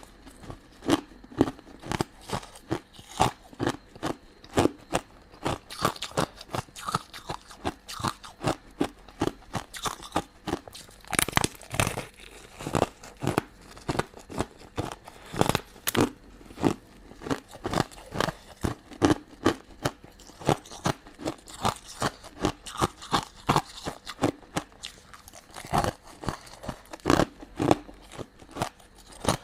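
Close-miked eating of crunchy sweets: crisp, crunching bites and chewing in a steady run of about two to three sharp crunches a second.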